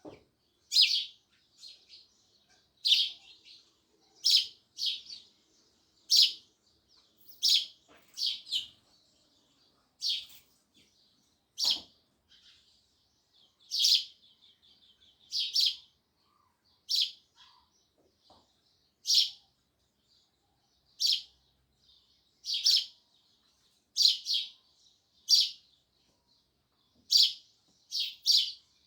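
House sparrows chirping: loud, sharp chirps repeated every one to two seconds, with softer chatter between them.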